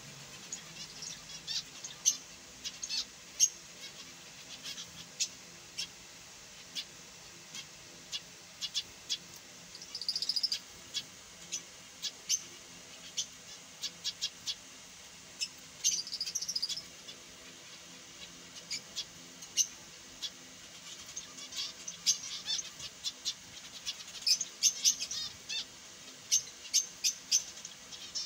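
Finches chirping: many short, sharp, high-pitched chirps at irregular intervals, with a longer buzzy call about ten seconds in and again around sixteen seconds, and the chirping growing busier near the end.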